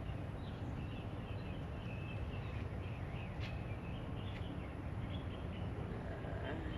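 Outdoor background: a steady low rumble with small birds chirping faintly throughout, and a couple of faint clicks.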